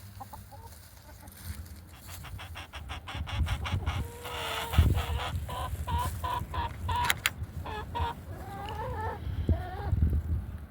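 Animal calls, much like a bird clucking: a fast run of short clucks, then several pitched calls, some gliding upward near the end, over a low rumble.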